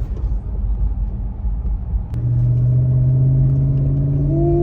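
Lexus GX470's V8 through a Magnaflow exhaust, heard from inside the cabin while driving: a low, subtle rumble. About two seconds in it changes suddenly to a steadier drone, which briefly rises in pitch near the end.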